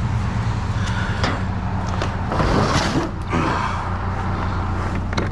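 Scrap being handled and loaded onto a pickup truck, with knocks and a louder rattling scrape between about two and a half and three and a half seconds in, over a steady low engine hum.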